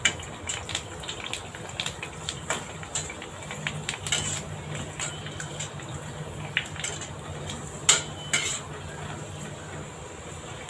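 Metal ladle clinking and knocking against a kadai while pani puri discs fry in hot oil: a string of sharp clicks, the loudest about eight seconds in, over a low hum.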